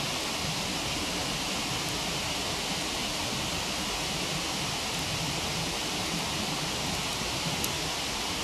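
Steady rush of a waterfall, with a few faint crackling pops from a wood campfire.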